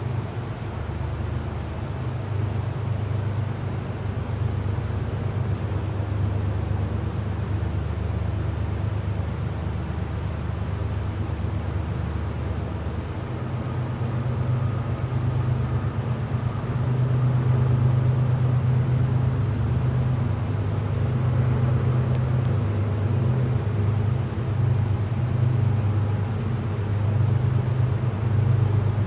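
Diesel locomotives of a CSX eastbound coal train running with a steady low rumble, growing louder about halfway through.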